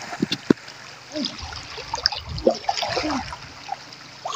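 Shallow seawater splashing and trickling, with scattered small sharp splashes, the sharpest about half a second in.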